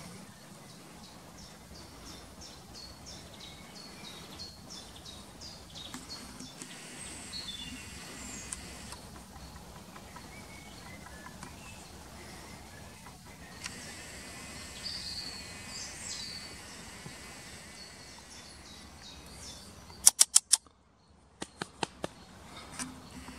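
Woodland birds chirping and singing, with short high calls repeated every half second or so, over a steady outdoor background. Near the end comes a quick run of four loud, sharp clicks, and a few more follow a moment later.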